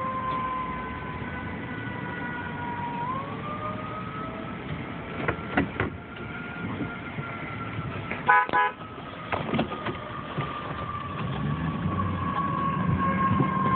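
Emergency vehicle siren wailing slowly, its pitch gliding down, jumping up about three seconds in, then gliding down again. A short horn blast sounds about eight seconds in, over traffic noise.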